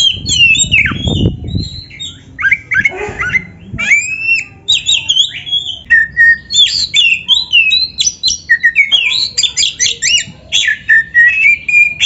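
Oriental magpie-robin (kacer) singing a rapid, varied song of short whistled glides, chirps and harsher notes, with brief pauses between phrases. A low rumble sits under the song about a second in.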